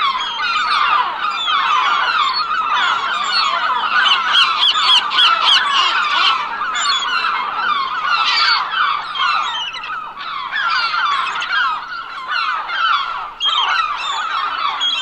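A large flock of gulls calling loudly, many short honking calls overlapping without a break.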